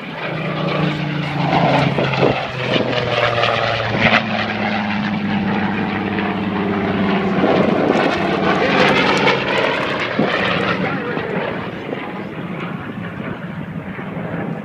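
Piston-engined propeller aircraft flying past low, its engine note dropping in pitch as it goes by. It swells twice, about two seconds in and again around eight to ten seconds.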